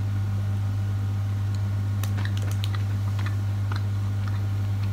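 Faint, scattered clicky mouth sounds of someone chewing a gummy vitamin, over a steady low electrical hum.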